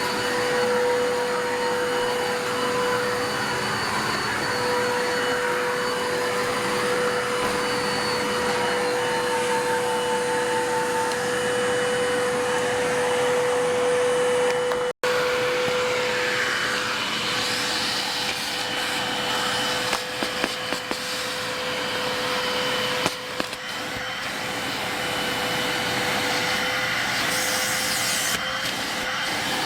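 Bissell 3760-1 vacuum cleaner running steadily, its motor giving a constant whine over the rush of airflow. It cuts out for an instant about halfway through, and a few knocks come in the second half.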